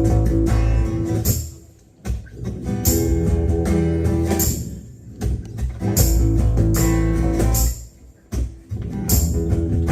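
Live band playing a song's instrumental intro: guitar chords over heavy bass, with a crash at the start of each phrase. The phrases last about three seconds each, with short breaks between them.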